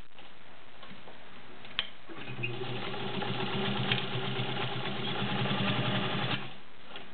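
White 3954 sewing machine's 1.3-amp motor running, stitching through five layers of denim. The hum picks up about two seconds in and stops shortly before the end, with a single light click near the two-second mark.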